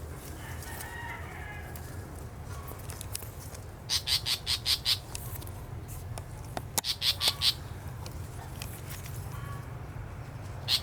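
A parent bird gives harsh alarm calls as she guards her nest from a nearby person. The calls come in two quick bursts of five or six sharp notes, one about four seconds in and one about seven seconds in, over a steady low rumble.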